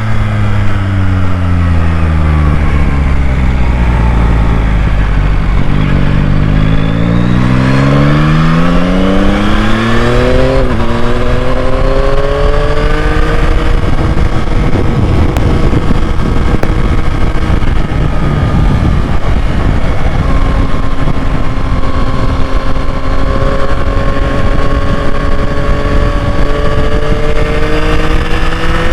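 A 2021 Yamaha MT-09's 890 cc inline three-cylinder engine being ridden: it first slows with the engine note falling, then accelerates hard through a few gears about six to eleven seconds in, with the pitch climbing and dropping back at each shift. It then cruises with a steady note that slowly rises.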